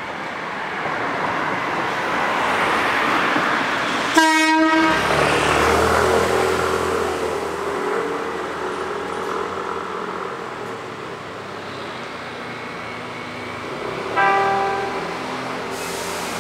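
Hankyu electric trains: running rumble swells, then a train horn gives one short, loud blast about four seconds in. A steady low hum and whine of train motors follows, and a second, shorter and higher-pitched horn blast comes near the end.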